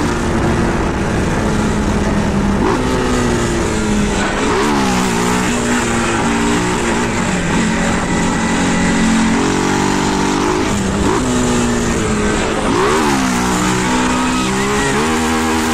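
Motorcycle engine running and being revved several times, its pitch climbing and dropping back between steadier stretches. It settles to a steady idle near the end.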